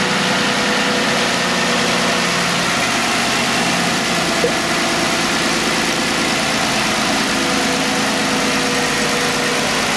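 2015 Jeep Wrangler JK engine idling steadily with the hood open, run at idle to circulate fresh coolant and burp air out of the cooling system after a thermostat replacement.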